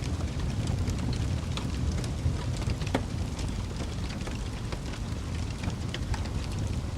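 Wood fire burning with a steady low rumble and irregular crackles and pops, a sharper pop about three seconds in.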